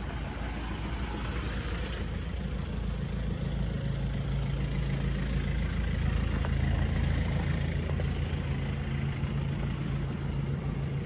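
Motor vehicle engine idling with a steady low hum, over street noise.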